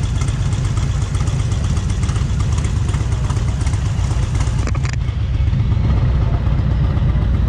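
Motorcycle engine idling steadily, a display bike kept running continuously for thousands of hours to show off its oil; it gets a little louder about five seconds in.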